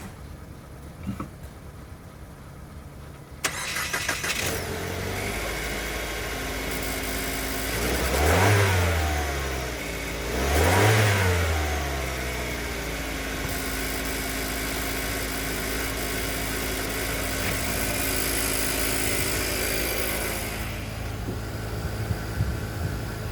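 2020 Mitsubishi Eclipse engine starting suddenly about three seconds in and settling into idle. It is revved up and let fall back twice, a couple of seconds apart, then idles steadily.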